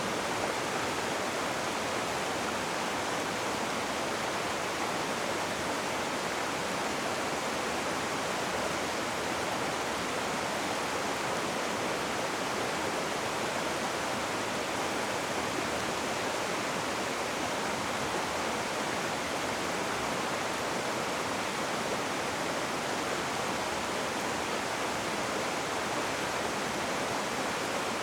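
Rushing river water, a steady dense rush with no breaks or distinct splashes.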